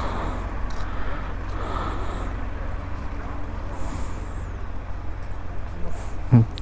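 Royal Enfield Himalayan 411cc single-cylinder motorcycle running, a steady low rumble mixed with road noise.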